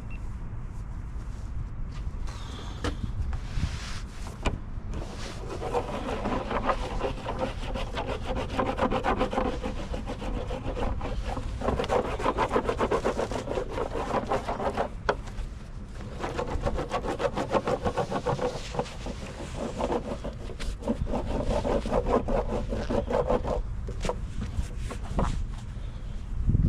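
Rubbing in quick, even, repeated strokes, coming in three long spells of several seconds each.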